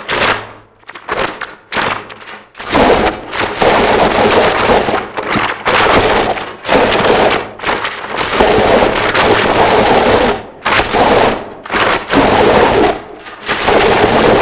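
Harsh noise music: a dense, distorted wall of noise that cuts in and out abruptly. It comes in short choppy bursts at first, then runs in solid blocks of a second or two broken by brief sudden gaps.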